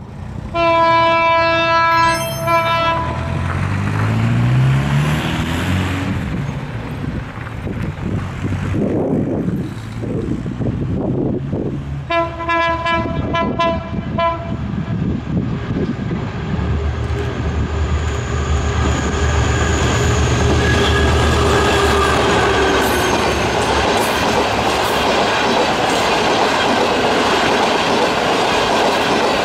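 EMD GT22 diesel-electric locomotive sounding its air horn in two long blasts, the first near the start and the second about twelve seconds later, its engine note climbing after the first. Then the train runs past close by, the coaches' wheels clattering over the rail joints in a steady loud rush.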